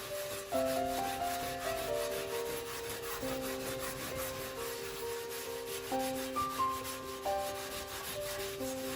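Wire dish-scrubbing ball rubbing back and forth over fireplace glass, a rough scratchy scrubbing, over background music of sustained chords that change every few seconds.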